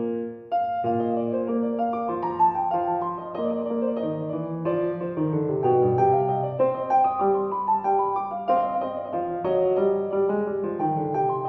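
Background piano music, a melody of struck notes over sustained lower chords, with a short break about half a second in.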